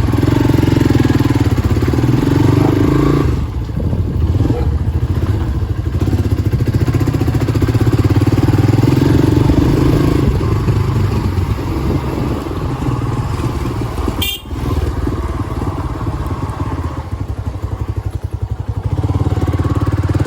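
Hero Xpulse 200 single-cylinder motorcycle engine running loud through a new aftermarket exhaust, a dense steady beat whose level dips briefly a few times.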